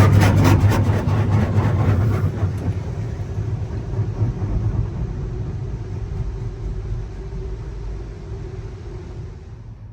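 Touch-free automatic car wash (PDQ LaserWash G5-S) spraying water onto a car over the low hum of its pump. The spray hits with a rapid pulsing for the first couple of seconds, settles into a steady hiss, and stops shortly before the end.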